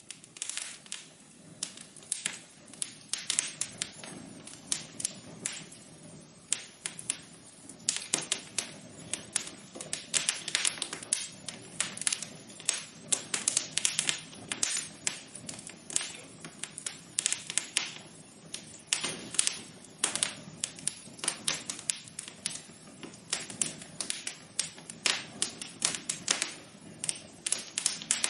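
Wood fire crackling in a fireplace: many irregular pops and snaps over a steady low hiss.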